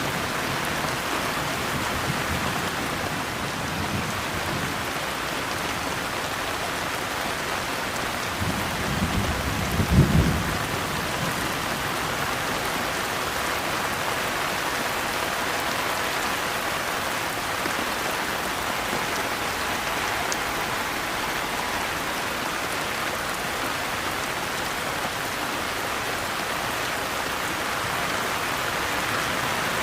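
Steady rain falling on a surface, with a low rumble of thunder swelling for about two seconds around ten seconds in.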